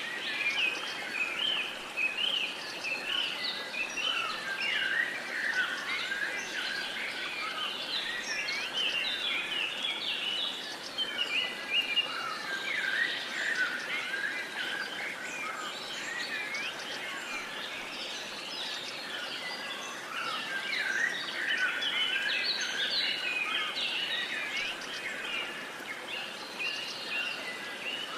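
Many songbirds singing and chirping at once, a dense overlapping chorus of short whistled notes and glides over a steady outdoor hiss.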